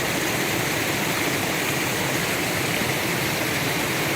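Stream water running and splashing, a steady rushing noise.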